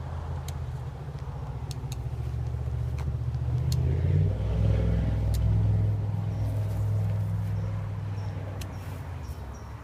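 A motor vehicle driving past, its engine growing louder to a peak about halfway through and then fading away.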